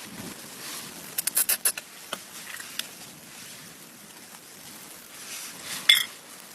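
A quick run of sharp clicks and crunches about a second in, a few single clicks after, and one louder crack near the end, over a steady hiss.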